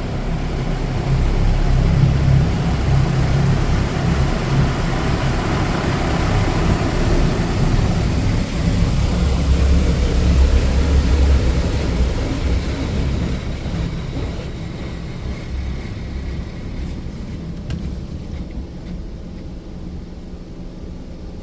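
Mark VII ChoiceWash XT automatic car wash spraying the car, heard from inside: a loud, steady hiss of water and chemical spray over a low machine hum. It fades gradually from about twelve seconds in as the spray moves away.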